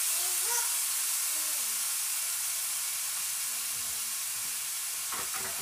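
Diced chicken sizzling steadily as it sears in a hot nonstick frying pan.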